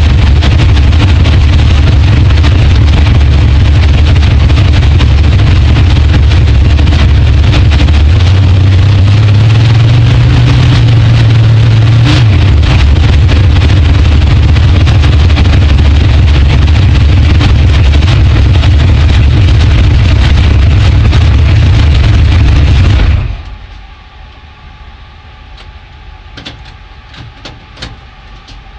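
Drag car's engine running, very loud inside the cockpit and overloading the onboard camera's microphone, with a low steady note that rises briefly around ten seconds in. About 23 seconds in the engine is switched off and cuts out abruptly, leaving a faint hum and scattered small clicks and knocks.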